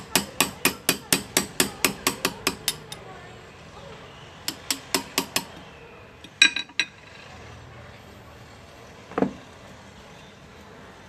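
A small hammer tapping a hand graver into metal, about four or five quick even taps a second for three seconds, then four more taps after a short pause. A brief clatter of knocks follows, and one duller knock comes near the end.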